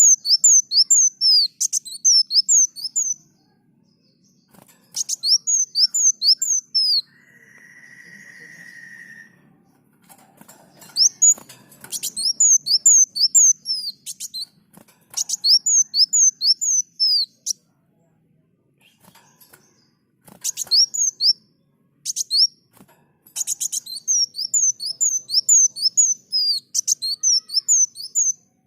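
Kolibri Muncang, a sunbird, singing: repeated phrases of quick, high, falling chirps, each phrase lasting a second or three with short pauses between. From about seven to nine seconds in, a steady mid-pitched tone takes the place of the song.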